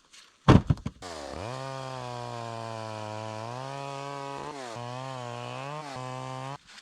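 A loud knock about half a second in, then a two-stroke chainsaw running while cutting firewood: its pitch rises as it comes up to speed, then holds fairly steady with small dips. It cuts off suddenly near the end.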